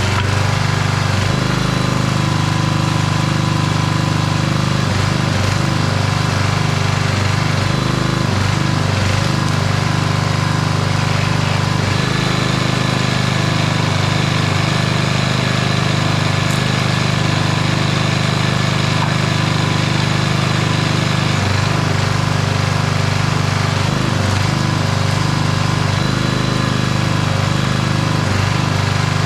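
An old 5 hp Briggs & Stratton single-cylinder engine runs steadily on a homemade log splitter. Its note changes slightly a few times, as the load on it changes.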